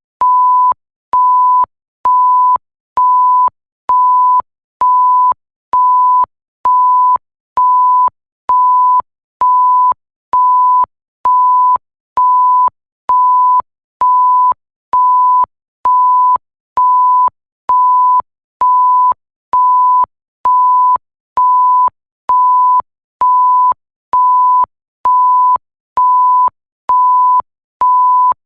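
Bleep sound effect: a single steady pure tone beeping on and off evenly, a little more than once a second, each beep about half a second long with a faint click as it starts and stops.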